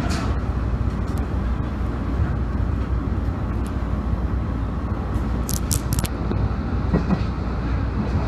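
Steady rumble of a train running on the rails, heard from inside the passenger car. A short cluster of high-pitched squeaks comes about five and a half seconds in.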